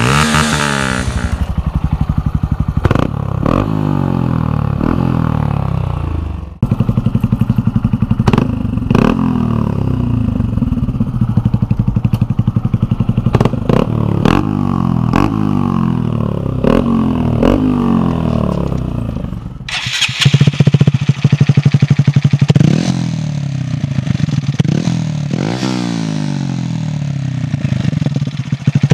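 Honda MSX125 (Grom) single-cylinder four-stroke engine through an aftermarket exhaust, revved again and again, each rev rising in pitch and dropping back. The sound changes abruptly twice, about six seconds in and again near twenty seconds, as one take gives way to another.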